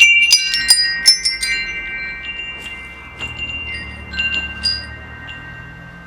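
Metal wind chime: a quick flurry of tubes striking in the first second and a half, their clear tones ringing on and slowly fading, then a few scattered strikes later on.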